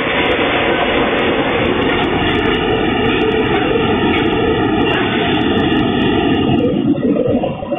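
A train running past close by just after sounding its horn: a loud, steady roar with a faint droning tone in it, turning choppy and easing about seven seconds in.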